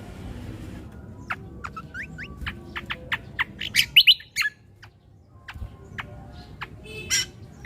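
Cucak kombo (kecial kombo) singing a fast run of sharp chirps and short rising whistled notes, starting about a second in. It pauses briefly in the middle, then picks up again with more chirps and a loud burst near the end.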